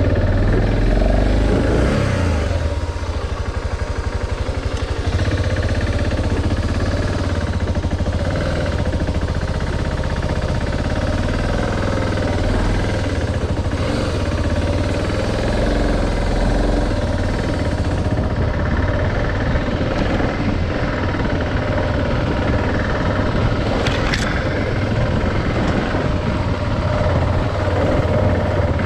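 Adventure motorcycle's engine running steadily while riding, under a constant rush of wind and road noise, with a few short knocks along the way.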